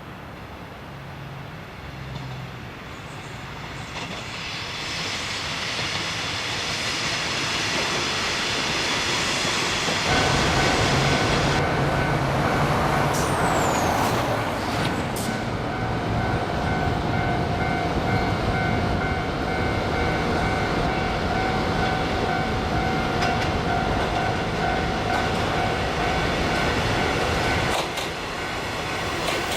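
KiHa 20 diesel railcar with its DMH17 diesel engine, growing louder over about ten seconds as it approaches, then running steadily close by with the noise of its wheels on the rails. From about halfway a steady high whine sounds over it until shortly before the end.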